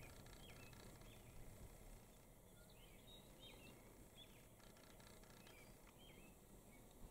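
Faint, scattered chirps and short calls of small birds over a low steady background hiss.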